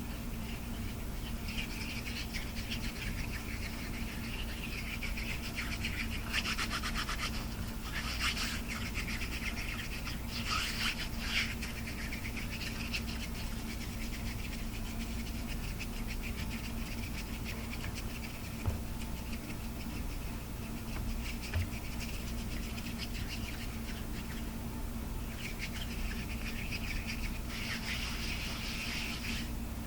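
Rapid close-up scratching and tapping, ASMR-style, with louder flurries a few times, over a steady low electrical hum.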